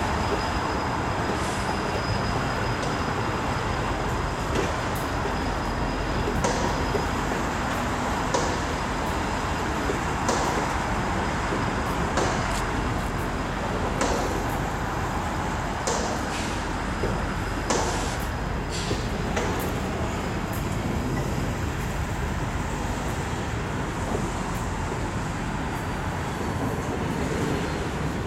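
Freight train of tank cars rolling past: a steady rumble of wheels on rail, with a sharp clack about every two seconds as the cars pass.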